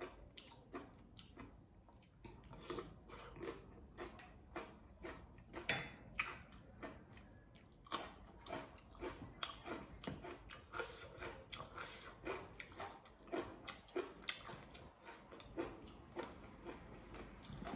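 A person chewing crunchy food close to the microphone: many short, irregular crunches and mouth clicks.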